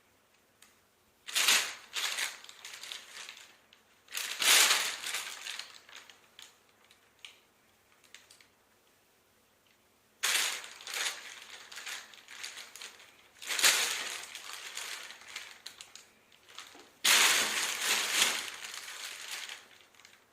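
A bag rustling and crinkling in five separate bursts of two to three seconds each, with quiet between them, as a cat plays with it.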